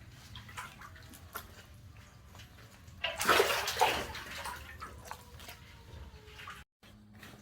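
Water splashing and sloshing, with a louder burst of splashing about three seconds in.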